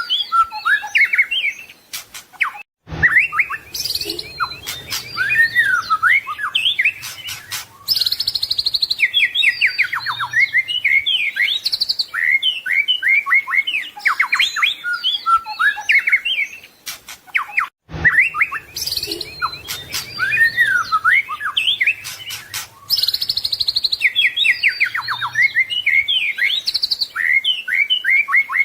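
White-rumped shama singing a long, varied song of loud whistles, sliding notes and rapid trills. The same passage plays twice, each time after a brief dropout about three seconds in and again about eighteen seconds in.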